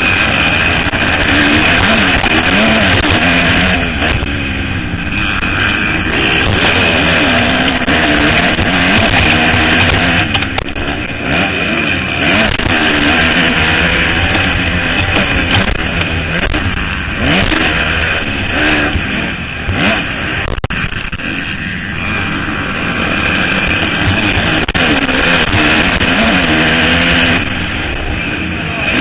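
Several motocross bikes' engines running hard, their pitches rising and falling as the riders rev and shift and the notes overlapping.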